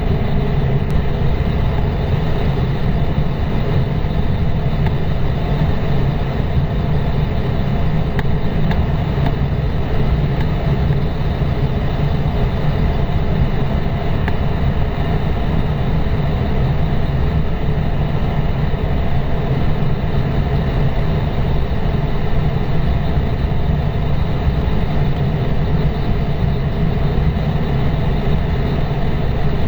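Cessna 172's four-cylinder piston engine and propeller droning steadily, with an even, unchanging pitch.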